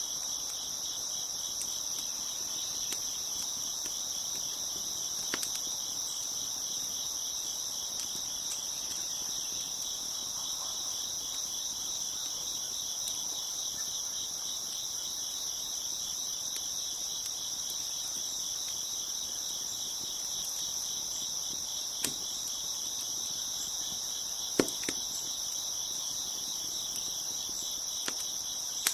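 Crickets chirping in a steady, continuous high chorus, with a wood fire crackling and giving a few sharp pops, the loudest late on.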